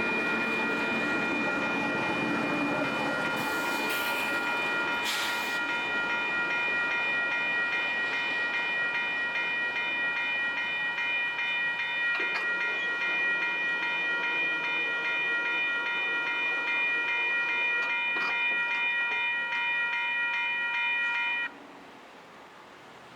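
Train rumbling past on the tracks, fading over the first few seconds, under a steady, slightly pulsing high ringing from a railroad grade-crossing warning bell. The ringing holds for about twenty seconds and stops suddenly near the end.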